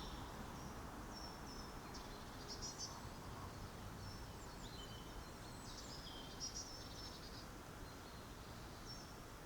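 Faint birdsong: several short, high chirps and brief phrases come and go, the clearest a few seconds in, over a steady low background hiss.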